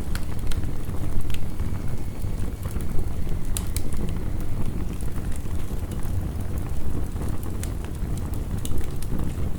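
Wood fire crackling, with irregular sharp pops, over a steady low wash of heavy rain.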